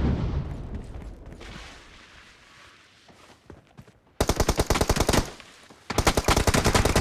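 Video-game automatic gunfire. A loud shot or blast fades away over the first couple of seconds, then there is a burst of rapid fire about four seconds in and another begins about six seconds in.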